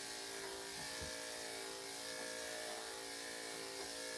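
Electric dog grooming clippers with a #3 3/4 blade running with a steady hum.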